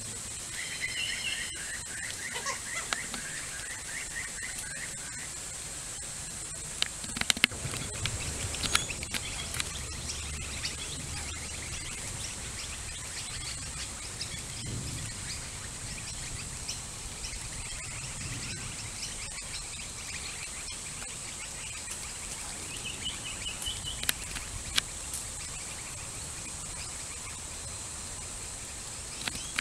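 Birds calling in short patterned phrases near the start and again about two-thirds of the way through, over a steady high hiss. A few sharp clicks come around seven to nine seconds in, with low rumbles.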